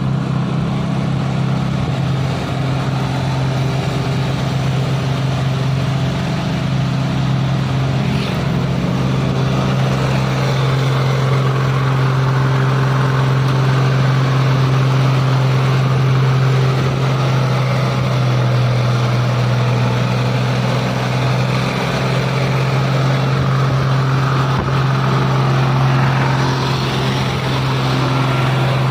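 Isuzu long-chassis truck's diesel engine pulling hard up a climb: a loud, steady drone that holds nearly one pitch and grows a little louder from about ten seconds in.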